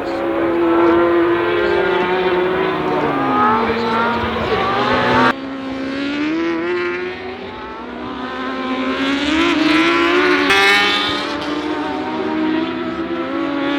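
Superbike engines running at racing revs on track, the pitch falling and climbing again and again through gear changes. The sound changes abruptly twice, about five and ten seconds in.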